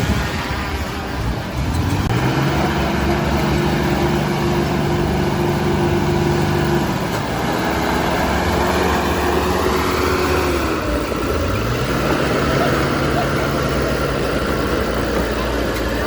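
Heavy earthmoving machine's diesel engine revving up about two seconds in and holding steady under load, easing off about halfway through, then revving up and holding again. A higher whine rises along with it in the second half.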